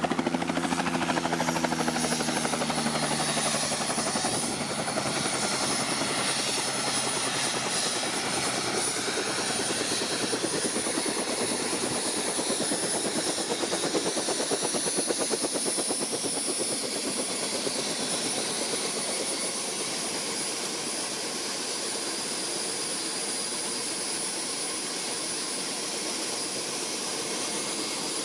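Helicopter running: quick rotor-blade chop under a steady high whine that slides down in pitch over the first two seconds and then holds.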